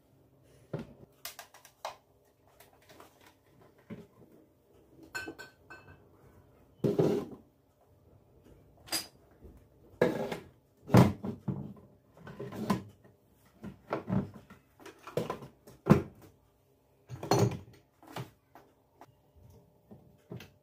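Kitchen clatter: dishes and kitchenware being handled and set down one after another, in a dozen or so separate knocks and clunks. A few brief ringing clinks come about five seconds in.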